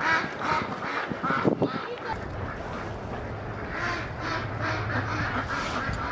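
Canada geese honking repeatedly, with ducks quacking among them, many calls overlapping.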